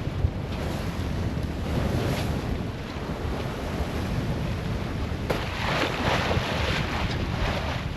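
Wind buffeting the microphone over sea water rushing along the hull of a sailboat heeled over in a strong breeze and swell. About five seconds in, a louder wash of water splashes against the boat.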